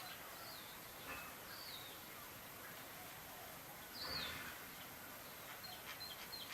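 Wild birds calling over a faint hiss of outdoor ambience: a few separate short, curving whistled notes spaced about a second apart, a brief louder rustling noise about four seconds in, and a few quick chirps near the end.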